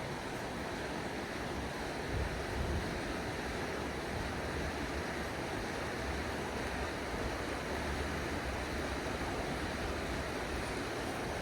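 Creek water rushing steadily over rocks, a constant hiss with no break. At times a low rumble of wind on the microphone rises under it.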